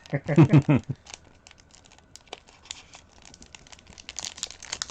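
Plastic packaging of a Heroclix product crinkling and tearing as it is cut and pulled open with a knife, with scattered clicks that grow denser near the end. A brief vocal sound comes at the start.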